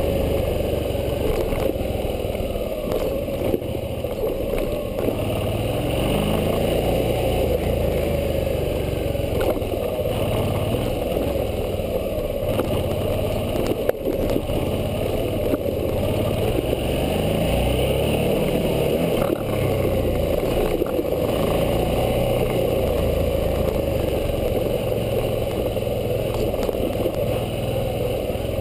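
Suzuki V-Strom 650's V-twin engine running at low revs on a rough dirt trail, its pitch rising and falling several times as the throttle is opened and closed. Scattered clatter and knocks over the bumps.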